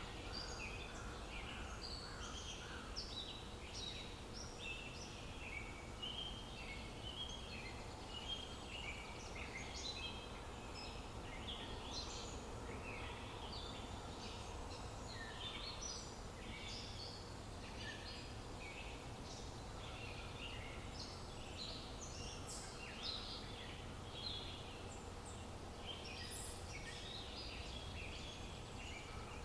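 Dawn-chorus-style birdsong: many birds chirping and whistling at once in short overlapping notes, over a steady low background hum of outdoor ambience.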